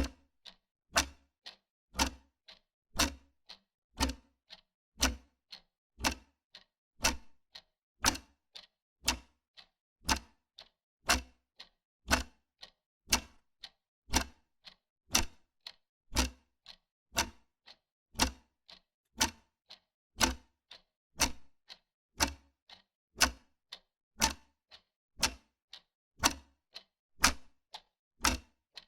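Wall clock ticking steadily: a louder tick about once a second, with a fainter tock between each.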